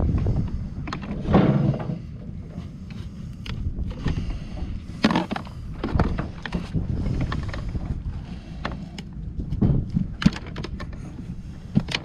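Steady low rumble of a charter fishing boat's engine, with scattered knocks and clatter on deck.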